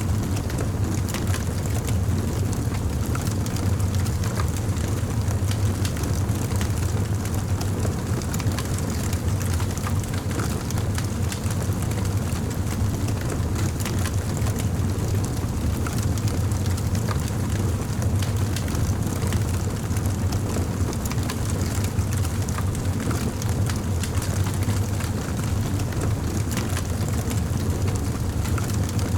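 Campfire burning: frequent small crackles and pops of burning wood over a steady low rumble.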